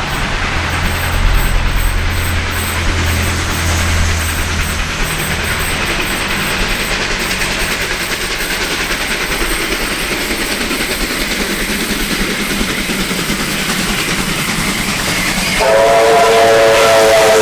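Heritage passenger train running past: a low engine rumble fades over the first five seconds, giving way to steady running noise. Near the end the train sounds a loud chord of several steady notes.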